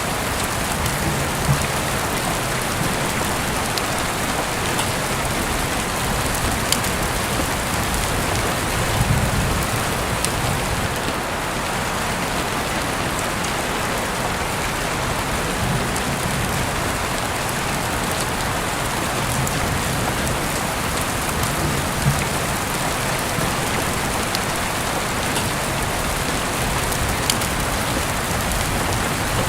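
Heavy rain falling steadily, an even hiss with scattered sharp drip taps. Now and then a soft low rumble swells up.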